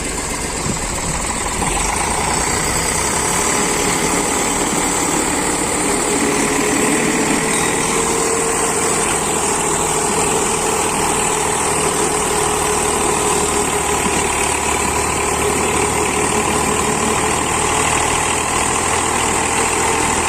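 Eicher 485 tractor's diesel engine running steadily and loudly, a constant drone with no breaks.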